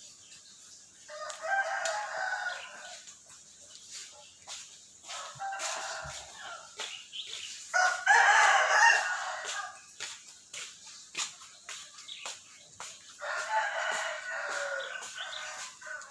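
Four harsh, raspy bird calls, each a second or two long, among scattered short clicks.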